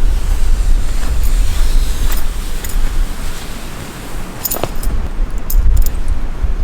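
Strong wind buffeting the microphone, making a loud, steady low rumble, with a few short sharp clicks and rattles of gear being handled, the loudest a little after halfway.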